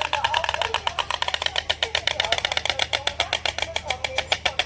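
White stork clattering its bill: a fast, even run of sharp clacks, held steady.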